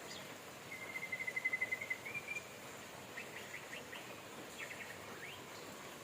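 Steady rain with a bird calling over it: a fast, even trill lasting about a second and a half near the start, then two short runs of quick rising chirps.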